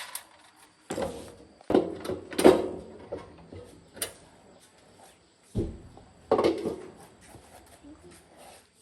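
Knocks and clunks of parts being handled while a mini milling machine is worked on: about six separate hits, the loudest about two and a half seconds in.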